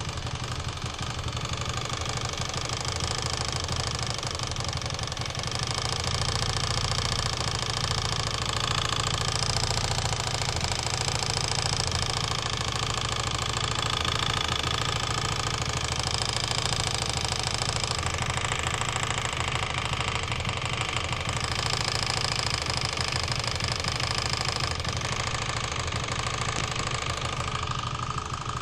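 Engine running steadily with a rapid, regular knock from inside it.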